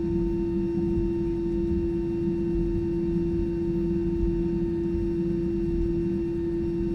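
Cabin noise inside an Airbus A320 airliner: a steady low rumble with one strong, constant humming tone and fainter tones above it, unchanging throughout.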